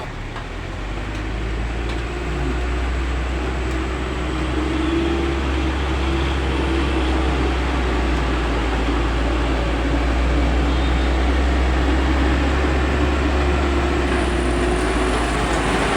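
Heavy truck's diesel engine pulling under load on a steep climb: a deep, steady drone that grows louder over the first few seconds, then holds.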